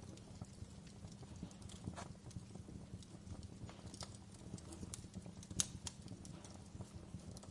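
Wood fire crackling in a fireplace: irregular snaps and pops over a low steady rumble, with one sharper pop about five and a half seconds in.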